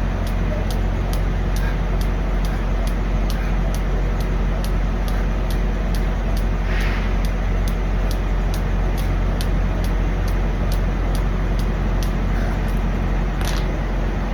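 Idling semi-truck diesel engine: a steady low hum with a faint, regular tick about three times a second. A couple of brief hisses are heard, one about seven seconds in and one near the end.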